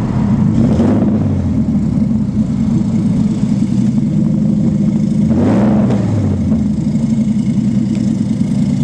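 Nissan 300ZX's naturally aspirated 3.0 V6 running with no exhaust fitted: a loud, steady drone, with two brief swells in pitch, about a second in and a little past halfway.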